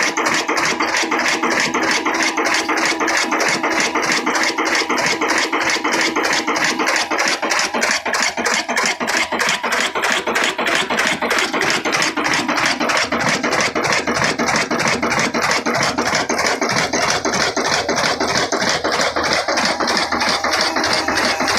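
Old black single-cylinder desi diesel engine (kala engine) running steadily with an even, rapid exhaust beat.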